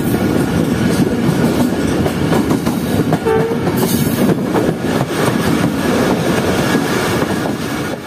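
A diesel-hauled train under way, heard from on board beside the locomotive: a steady loud rumble with the rattle and clatter of wheels on the rails.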